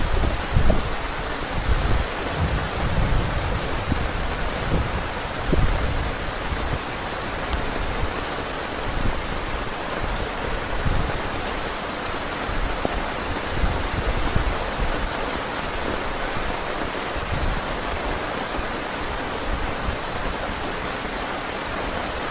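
Heavy rain falling steadily, with uneven low rumbles during the first few seconds.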